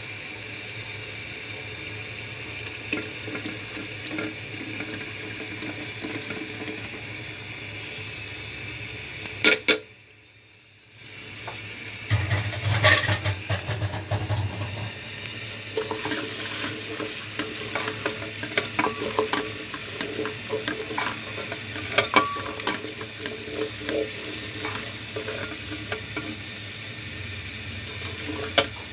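Kitchen work: a steady hiss with a low hum under it and many scattered clinks and knocks of utensils and dishes, broken by a short quiet gap about ten seconds in.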